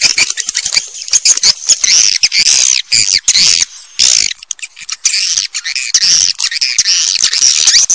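Recorded swiftlet calls: a loud, dense, unbroken chatter of many high-pitched twittering chirps and sharp clicks, the kind of call track played in swiftlet houses to lure the birds in to nest.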